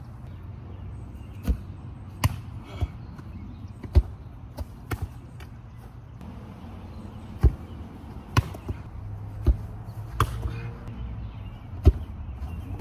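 A football thudding as it is struck and bounces, about a dozen sharp, separate thuds at irregular intervals over a low steady rumble.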